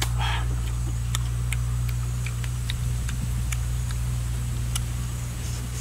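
A steady low hum under scattered small clicks, with a short chewing sound just after the start as a mouthful of fruit is chewed.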